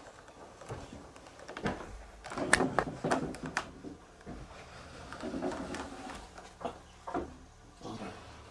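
A run of sharp clicks and knocks, as of a latch or door being handled in a small room, bunched between about two and four seconds in, with a few more near the end.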